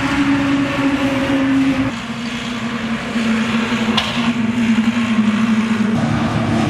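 A heavy truck's diesel engine running as it travels past, a steady drone that shifts abruptly in pitch about two seconds in and again near the end, with one short sharp tick midway.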